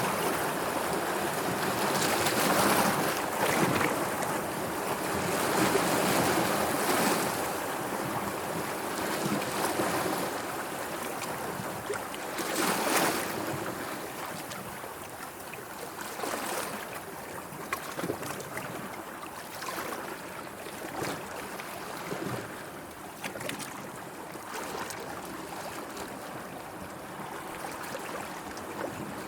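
Sea water washing and lapping, with a few louder surges in the first half and smaller splashes after.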